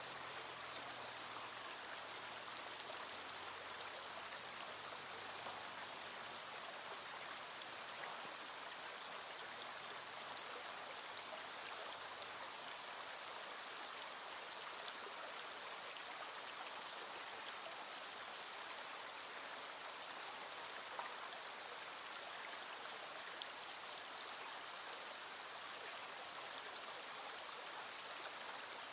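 Small stream flowing with a steady rush of water, with light rain falling and scattered raindrop ticks.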